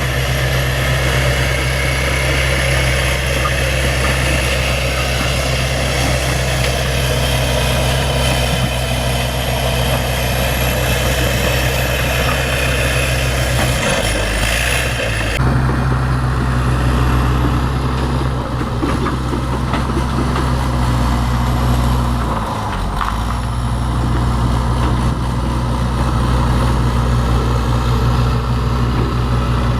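Bulldozer's diesel engine running steadily, with brief dips in its low hum about halfway through and again about three quarters of the way in.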